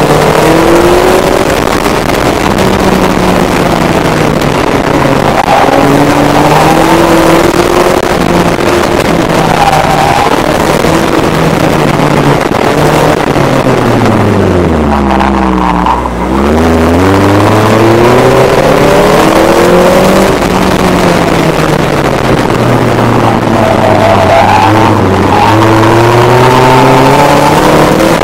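Ariel Nomad's Honda 2.4-litre four-cylinder engine under hard driving, revs rising and falling through gear changes, with wind noise. About halfway through the revs drop right down as the car slows, then climb again.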